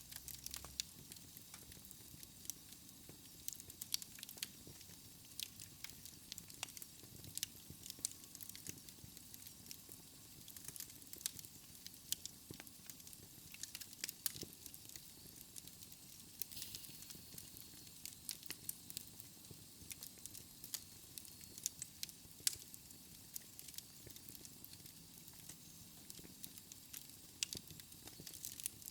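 Fire crackling in a fireplace, with frequent irregular sharp pops and snaps over a soft steady hiss.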